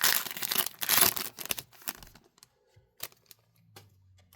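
Foil trading-card pack wrapper being torn open and crinkled, loud for about two seconds, then a few light clicks and taps as the cards are handled.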